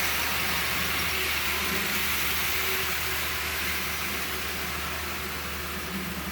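Thomas the Tank Engine model train running on its track: a steady whirring, rolling noise of the small motor and wheels, easing off a little in the second half.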